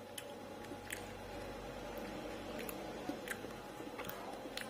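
Faint chewing of a mouthful of fried chicken with the mouth closed: soft, irregular wet clicks from the mouth. The breading has gone soft and is no longer crispy.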